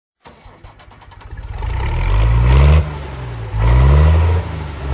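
Gehl 4840 skid steer loader's engine picking up from a faint, quick ticking and revved up twice, its pitch rising each time and dropping back to a lower speed in between.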